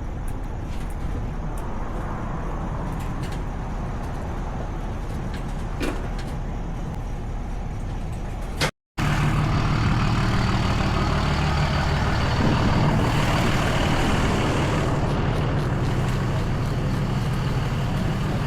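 Truck engine running steadily, with a few light clicks. After a sudden break about nine seconds in, it is louder, with a strong steady low hum.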